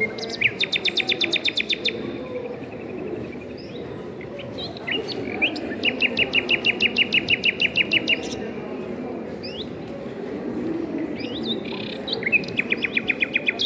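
A songbird singing a fast trill of quick, downward-sweeping chirps, about ten notes a second, in three phrases of one to two seconds each. A steady low murmur lies underneath.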